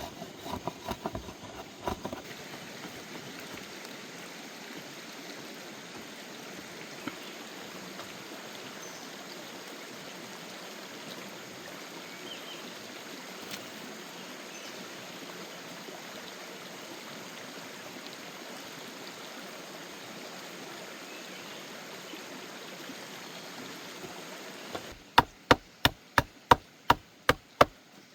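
Steady rush of flowing water, with a few knocks in the first two seconds. Near the end it cuts to a quick run of loud, sharp chopping strokes, about three or four a second.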